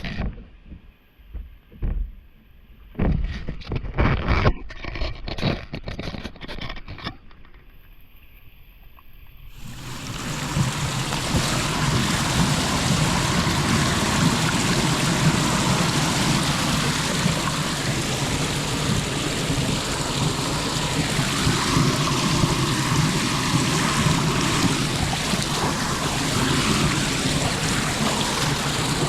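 Several knocks and scrapes at a clogged street drain, then from about ten seconds in a steady rush of floodwater running into the drain.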